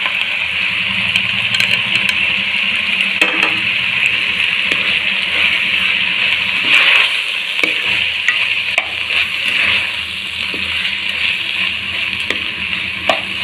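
Chopped vegetables and mashed potato frying in oil in a pan, a steady sizzle, while a spoon stirs them, with a few sharp clicks of the spoon against the pan.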